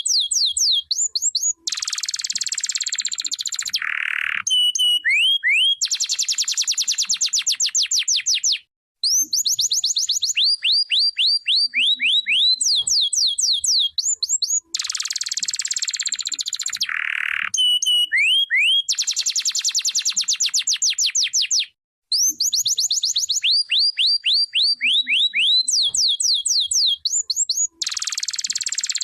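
Domestic canary singing: long high-pitched song of fast trills and series of quick falling whistled notes, the same song phrase coming round again about every 13 seconds.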